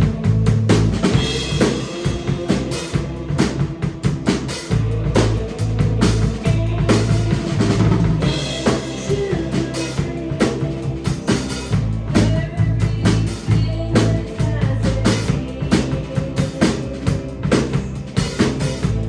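Live rock band playing, the drum kit to the fore with steady kick and snare hits over sustained low notes.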